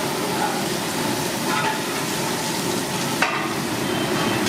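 Food frying with a steady sizzle in a large cooking pot, with two sharp knocks from a utensil about a second and a half and three seconds in.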